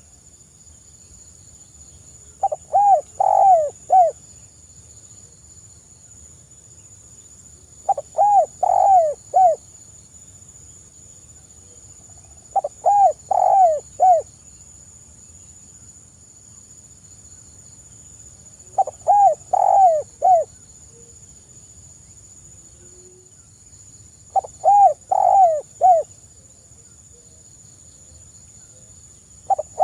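Spotted dove (tekukur) cooing. It gives a short phrase of four or five coos about every five to six seconds, five times, with another phrase starting at the very end.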